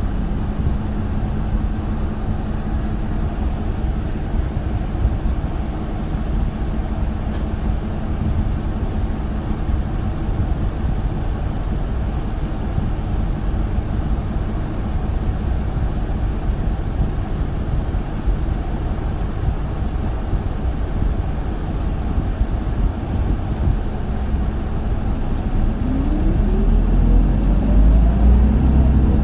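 Isuzu Erga city bus (2RG-LV290N3) with its four-cylinder diesel running at a steady, even hum. About 26 seconds in, the engine revs up with a rising pitch as the bus accelerates.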